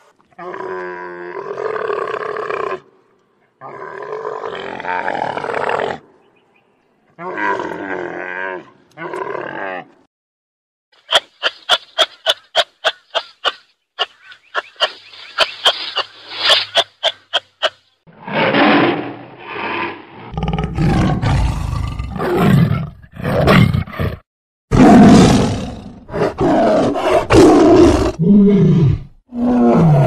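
A sequence of animal calls. First come three long drawn-out camel calls, then a quick train of sharp clicks from a kangaroo at about two a second. In the last dozen seconds comes a string of loud, deep tiger roars.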